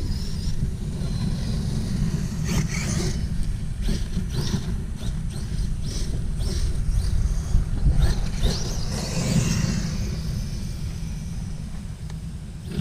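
Electric Traxxas RC truck driving hard, its motor whining up in pitch as it accelerates, most strongly about eight seconds in, with several sharp knocks scattered through, over a steady low rumble.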